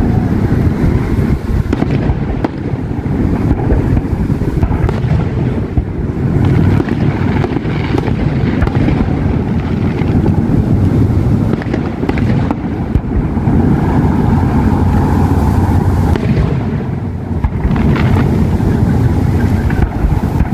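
Fireworks going off in the distance, with a few sharp bangs spaced several seconds apart, over a steady low rumble.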